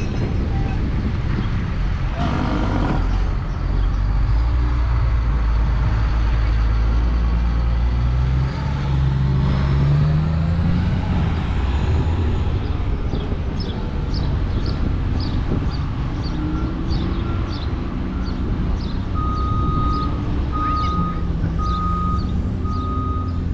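Heavy truck engine running with a low rumble; about three quarters of the way through, a reversing alarm starts beeping steadily, a little faster than once a second.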